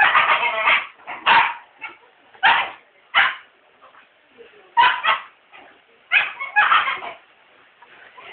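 A dog barking repeatedly at a vacuum cleaner, in short loud barks that come in clusters with brief pauses between them.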